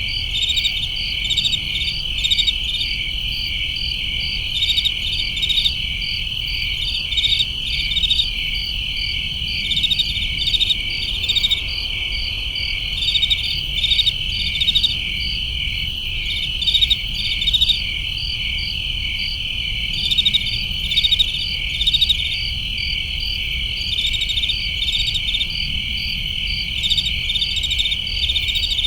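Crickets chirping at night: a continuous high trill, with short pulsed chirps from other crickets in quick groups every second or two, over a faint low rumble.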